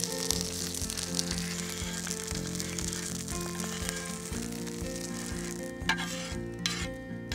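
Italian sausage and burdock root sizzling in duck fat on a hot steel shovel blade. The sizzle dies down about five seconds in, followed by a couple of scrapes as the food is pushed off the steel into a wooden cup. Soft background music runs underneath.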